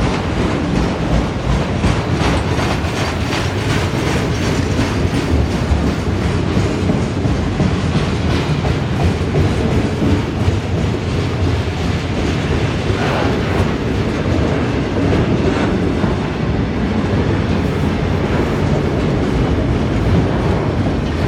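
Train rolling steadily past with a continuous rumble, its wheels clicking rhythmically over rail joints.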